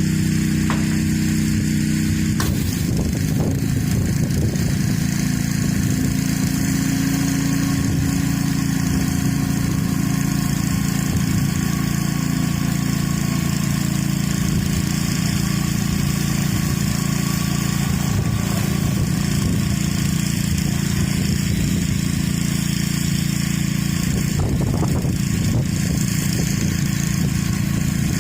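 Gas-engine pressure washer running steadily under load, with the hiss of its high-pressure water jet blasting grime off concrete. The engine note shifts about two and a half seconds in.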